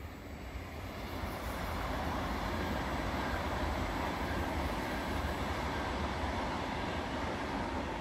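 Frecciarossa high-speed electric train passing close by: a rush of wheels on rail with a deep rumble that builds over the first couple of seconds, holds steady as the coaches go by, and begins to ease near the end as the tail passes.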